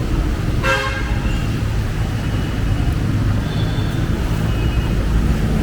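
Steady city street traffic, a low rumble of engines and tyres, with a brief shrill sound about half a second in.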